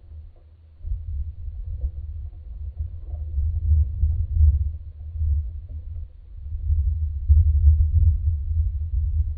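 Low rumble of wind buffeting the microphone of an outdoor nest camera. It swells and fades in gusts and is weakest in the first second.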